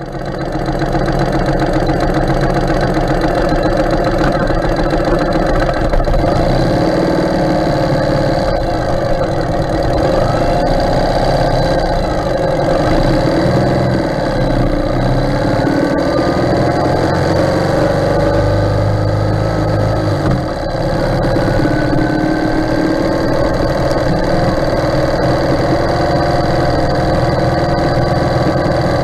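Ural sidecar motorcycle's air-cooled flat-twin engine running on the move, its pitch rising and falling with the throttle, with a brief drop in level about two-thirds of the way through.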